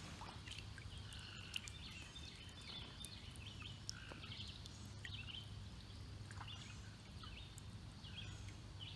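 Faint riverside ambience: scattered short bird chirps over a low steady rumble, with a few light clicks.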